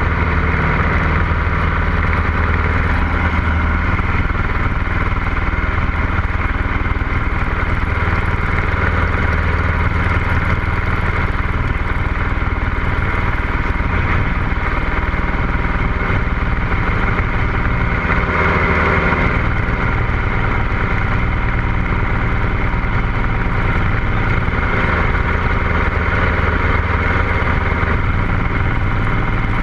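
Cessna 150L's Continental O-200 four-cylinder engine and propeller running steadily at an even, low power setting.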